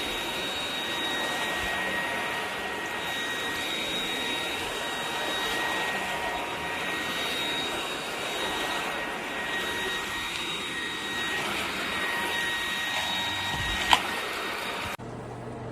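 Eureka RapidClean Pro cordless stick vacuum running steadily, its motor giving a steady whine over the rush of air. A sharp click comes near the end, and the motor sound cuts off about a second later.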